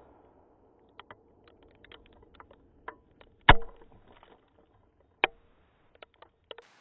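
Scattered sharp knocks and thuds, muffled through a GoPro's protective case, as debris from a tannerite explosion lands around the camera. The loudest knock comes about halfway through, another strong one about three-quarters through.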